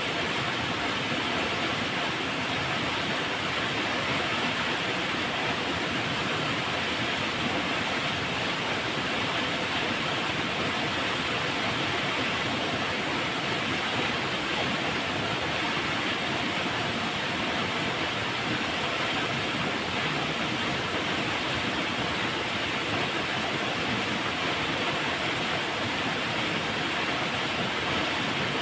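River water flowing, a steady, even rushing noise with no changes.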